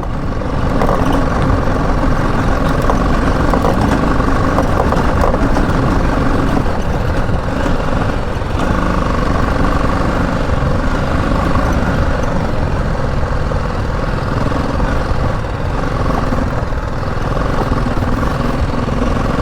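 BMW G 310 GS's single-cylinder engine running steadily as the motorcycle climbs a slippery uphill road at gentle throttle.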